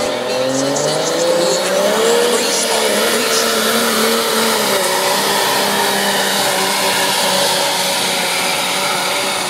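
Dodge Ram turbo diesel truck running at full throttle, its engine note rising over the first two seconds and then holding steady.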